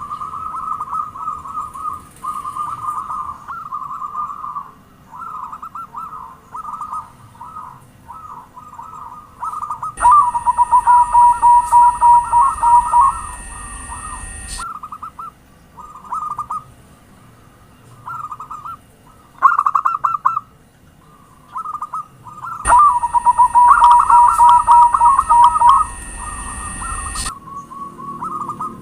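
Zebra doves (perkutut) cooing in rapid trilled phrases, one after another, as a lure recording. Twice the calls grow much louder for about four seconds, starting and stopping abruptly with a steady high tone underneath, like a second recording cut in.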